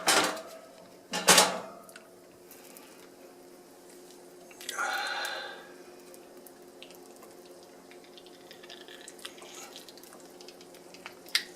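Two sharp clattering knocks within the first second and a half as a honey frame and heated uncapping tool are handled over a sink and dish-drying grate, followed by quieter handling noises over a faint steady hum.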